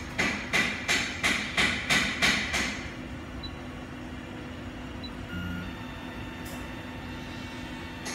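A quick run of about eight sharp knocks, roughly three a second, which stops about three seconds in and leaves a steady low hum.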